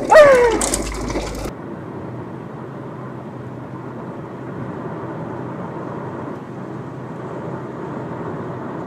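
A brief, loud sound falling in pitch at the start, then, after a sudden cut, steady low road and engine noise of a car driving.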